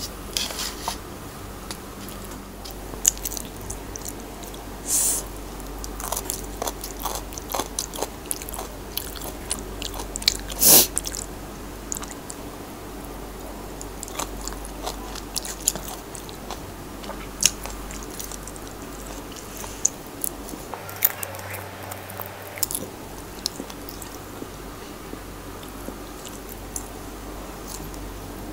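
A person chewing and biting food with chopsticks, mouth sounds with scattered crisp clicks and crunches. One louder sharp click comes about eleven seconds in.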